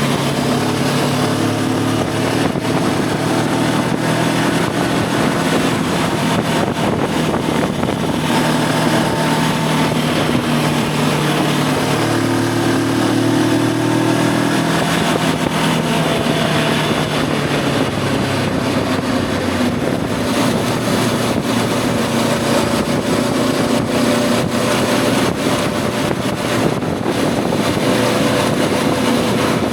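Voge 525 DSX parallel-twin engine running under way, its note shifting up and down with throttle and gear changes, over steady wind rush.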